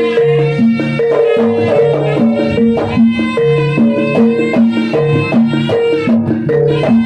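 Javanese traditional performance music: a repeating pattern of held pitched notes at a steady beat over drums and percussion.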